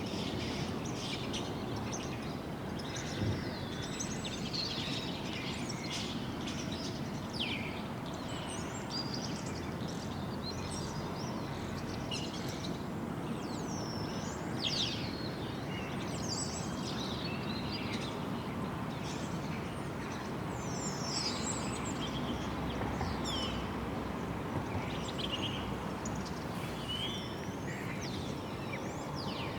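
Several small birds chirping and singing in quick, overlapping calls, over a continuous rushing background noise.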